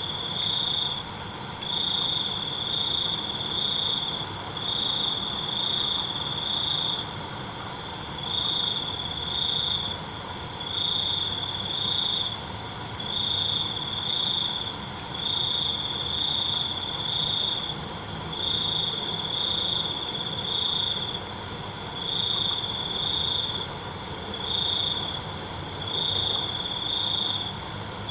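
Crickets chirping in a night insect chorus. One loud cricket trills in pulsing bursts about a second long, repeating every couple of seconds, over a steady, higher-pitched chorus of other insects.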